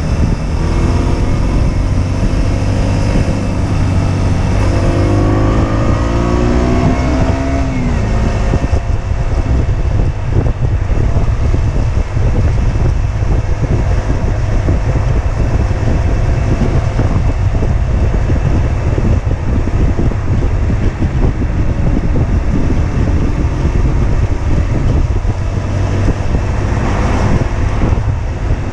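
Husqvarna Svartpilen 125's single-cylinder engine accelerating, its pitch climbing through one gear, dropping at a shift about five seconds in and climbing again. After that the bike cruises steadily, the engine mostly buried under heavy wind rush on the microphone.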